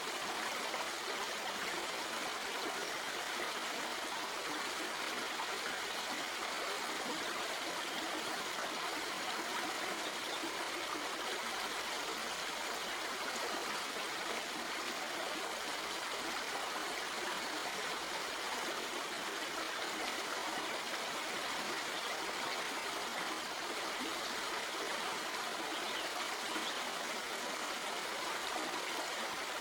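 A shallow stream flowing over rocks, a steady rushing babble with light trickling.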